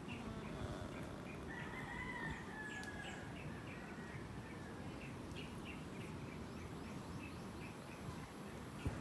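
A rooster crowing once: a long held call starting about a second and a half in. Faint short chirps repeat steadily behind it, and there is a sharp click near the end.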